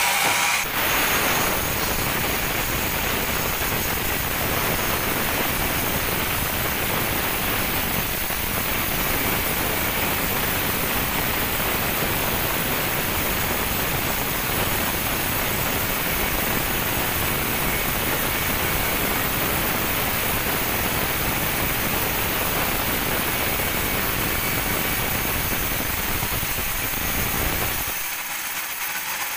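Sawmill band saw running steadily through a teak log, a dense, even noise. Its low rumble drops away about a second before the end.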